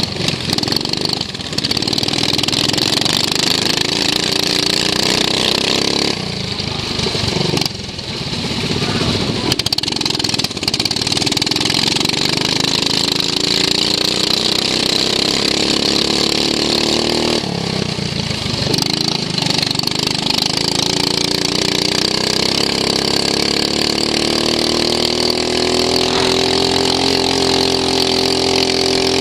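A racing lawn mower's engine heard from onboard, rising in pitch as it accelerates. The engine note drops away twice, about six seconds in and again about seventeen seconds in, then climbs steadily to a higher pitch near the end.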